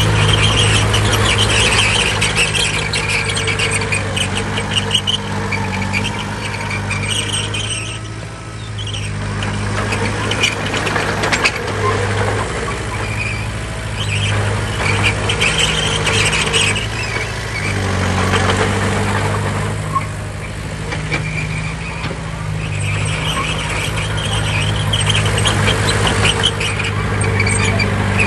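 Heavy earthmoving machine's diesel engine running steadily under load, with a high metallic squeal that comes and goes over it.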